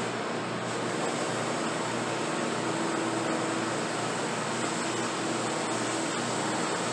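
A workshop machine running steadily: a constant rushing noise with a faint hum.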